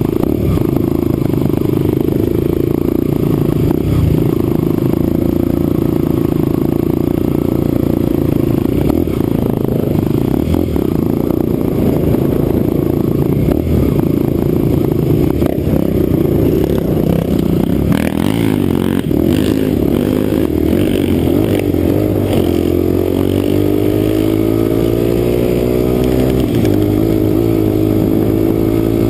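Yamaha XTZ dual-sport motorcycle engine running steadily while riding a trail, heard from a helmet-mounted camera, with scattered clatter and scraping about two-thirds of the way in. Near the end the engine note rises as the bike accelerates.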